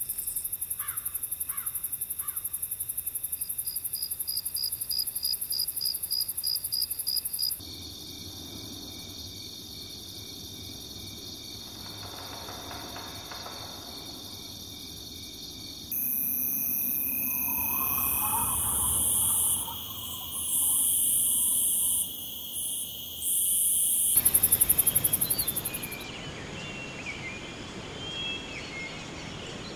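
A sequence of nature ambiences that change abruptly every several seconds. It opens with a high, fast-pulsing insect chorus over steady high tones, quietens, then a loud high-pitched insect drone starts and stops several times. Near the end come scattered bird chirps.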